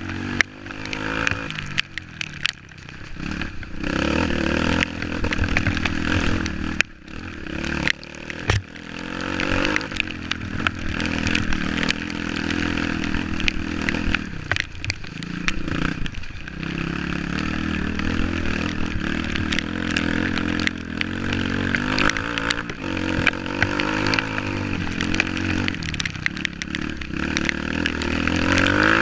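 Off-road motorcycle engine running and revving up and down over and over, with a few sharp knocks along the way.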